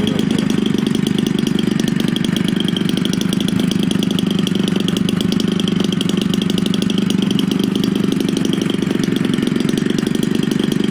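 Homelite 30cc two-stroke single-cylinder engine, a string-trimmer engine converted for an RC airplane and fitted with a larger Walbro carburetor, running steadily at an even speed.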